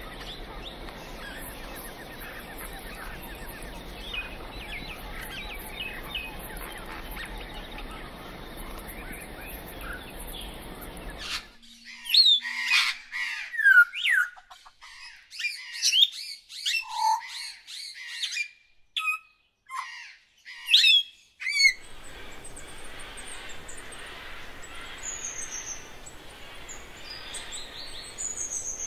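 Outdoor ambience with birds chirping faintly. From about 11 to 22 seconds a cleaner stretch of loud bird calls takes over: quick sweeping chirps and short calls over a silent background. Then the steady ambience and faint chirps return.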